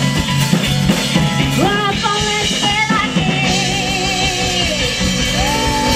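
Live rock band playing with electric guitar and drum kit; about a second and a half in a lead melody slides up and is held with a wavering vibrato for a few seconds, and a new held note starts near the end.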